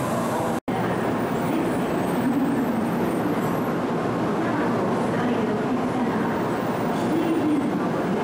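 Steady platform noise beside a standing N700-series Shinkansen train: a constant hum and rush with faint wavering tones underneath. The sound cuts out completely for an instant about half a second in.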